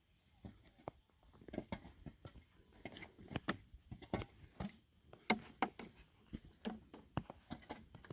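A run of irregular light knocks and clicks, several a second, some with a dull thud beneath.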